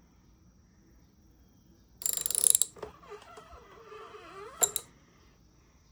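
Mechanical ratcheting and creaking as the crankshaft of a 1969 Johnson 9.5 hp outboard is turned by hand to check that the freshly set breaker points open and close. About two seconds in there is a loud, short run of rapid clicks, then a wavering squeak, and a sharp click near the end.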